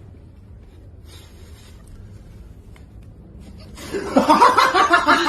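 Faint low background rumble, then about four seconds in a person breaks into loud, rapid laughter.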